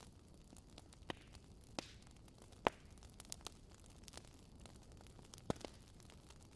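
Campfire burning with a low steady hiss and irregular sharp pops and crackles of the wood, the loudest about two and a half seconds in and another near five and a half seconds.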